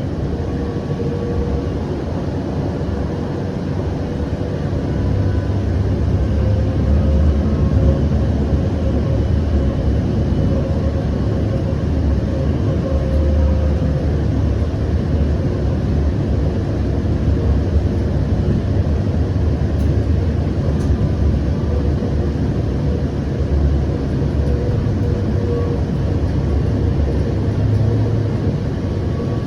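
Siemens S700 light rail car running between stops, heard from inside the car: a steady low rumble of wheels and running gear with a faint steady hum, growing a little louder a few seconds in as the train picks up speed.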